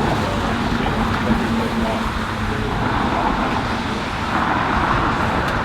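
Steady road and tyre noise of a car driving.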